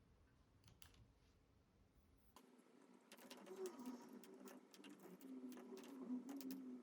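Near silence, with faint light clicks and taps that become more frequent and a little louder after about two seconds.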